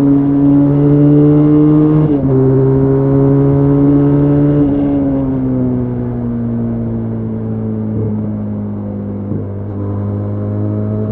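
Benelli Leoncino 500's parallel-twin engine accelerating under load, its note climbing and then dropping sharply at two upshifts, about 2 and 5 seconds in. After the second shift the note falls slowly as the bike eases off.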